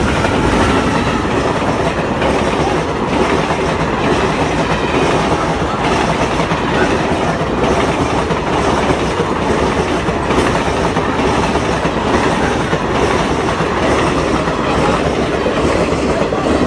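A train passing close by on the track: a loud, steady rush of wheels and carriages running over the rails.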